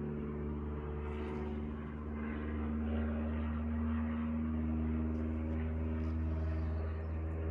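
Steady low mechanical hum with several held tones; the pitch of the tones shifts slightly a couple of times.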